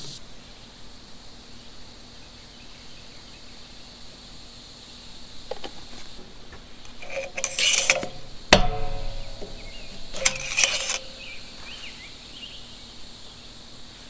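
Steady high-pitched chorus of insects, with a couple of brief clattering handling noises and one sharp metallic clink that rings briefly, a little past the middle.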